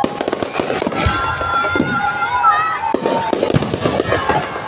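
Aerial fireworks display: shells bursting with rapid bangs and crackling, densest near the start and again from about three seconds in.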